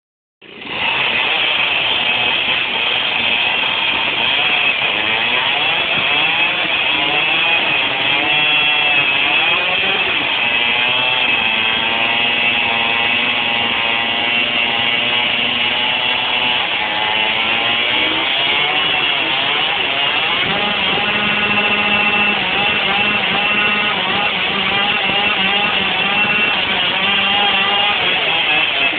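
Dirt bike engine revving hard during a burnout, its pitch rising and falling over and over without a break. It starts abruptly about half a second in.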